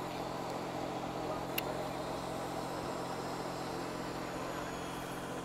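A steady low mechanical hum over background noise, with one sharp click about a second and a half in.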